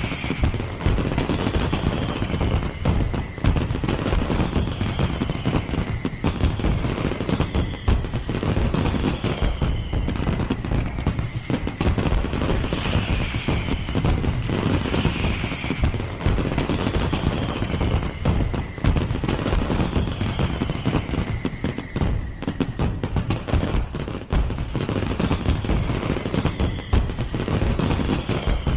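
Fireworks display: a dense, continuous barrage of rapid crackling and popping bangs.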